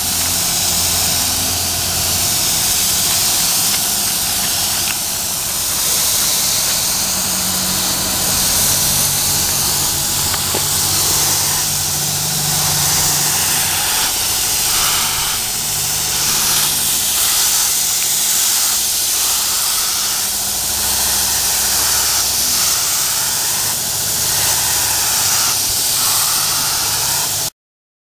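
Compressed-air paint spray gun hissing steadily, with a low mechanical hum underneath; the sound cuts off suddenly near the end.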